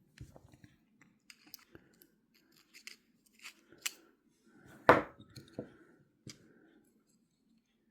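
Small metal parts of an Abumatic 150 fishing reel clicking and tapping as they are handled and fitted back together, with one louder clack about five seconds in.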